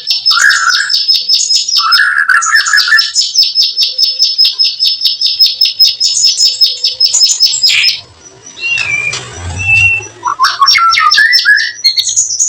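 Songbird 'kretekan' call: a fast, dry rattle of short high chirps, about eight a second, mixed with lower buzzy bursts at first. The rattle breaks off about eight seconds in, giving way to a few short whistled notes before rapid chirping resumes near the end.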